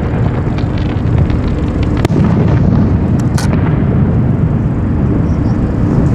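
Aerial fireworks shells bursting in quick succession: a continuous rumble of booms with sharp cracks and crackle mixed in, one especially sharp crack about two seconds in.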